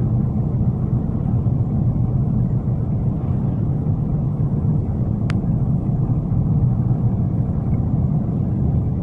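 Steady low rumble of a car's engine and tyres on a snowy road, heard from inside the cabin, with a single brief click about five seconds in.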